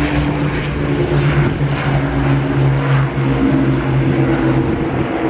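Rolls-Royce Merlin piston aero engines of a Second World War warbird in flight, a steady low drone that holds its pitch.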